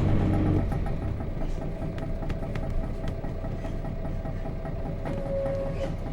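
Nissan Diesel FE6 straight-six diesel engine of a route bus heard from inside the cabin. Its strong drone drops away about half a second in as the throttle comes off, leaving a lower, rougher rumble of the engine idling or coasting, with small body rattles and clicks.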